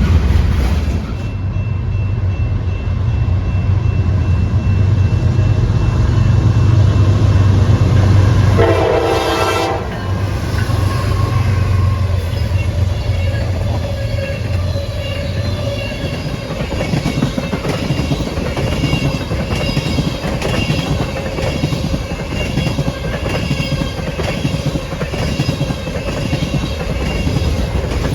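A diesel locomotive passes with its engine running heavily and sounds one short horn blast about nine seconds in. After about sixteen seconds the engine fades and the railcars roll by with a steady clickety-clack of wheels over rail joints.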